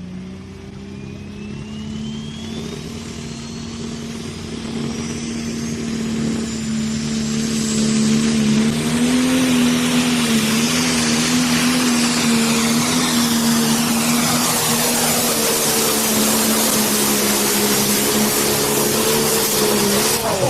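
Pro stock pulling tractor (John Deere 6030) at full power down the track: its single-turbo 680-cubic-inch engine running hard under load, with a turbo whine rising steadily in pitch over the first several seconds as the run gets louder, then holding loud and steady.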